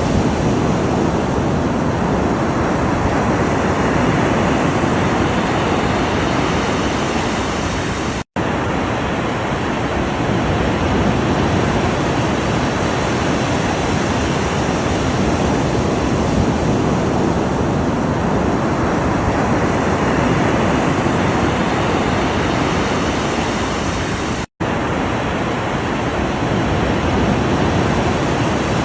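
Continuous surf of ocean waves, swelling and easing slowly. It cuts to silence for an instant twice, about eight seconds in and again about sixteen seconds later.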